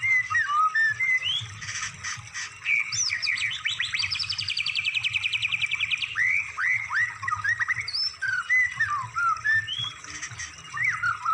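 Songbird singing a varied song of quick whistled slurs and chirps, broken by a fast trill of about a dozen notes a second from about three to six seconds in, and a shorter trill near the end.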